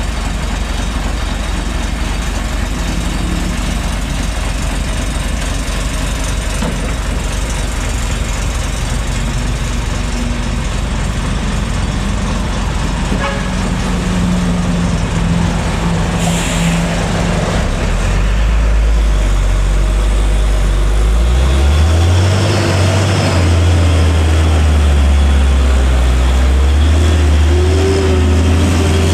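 Heavy diesel truck engine running under load on a steep climb, a deep drone that grows louder about eighteen seconds in and keeps rising and shifting in pitch as it labours. A short air-brake hiss comes about sixteen seconds in.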